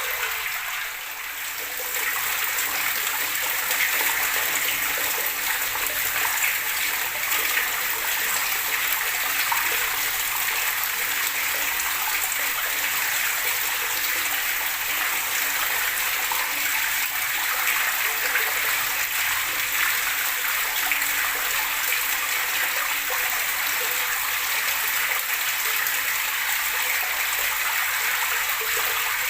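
Running water flowing and splashing steadily, with a slight dip in loudness about a second in.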